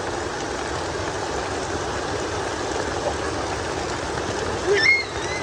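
Heavy rain falling steadily, a dense even hiss and patter. Near the end comes a brief high-pitched squeal.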